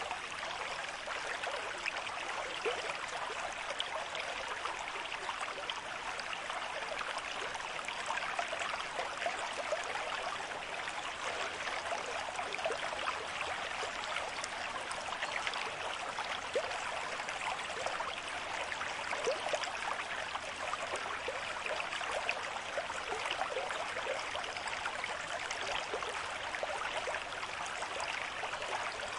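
Stream of moderate flow running over stones: a steady rush of water dotted with small splashes and gurgles.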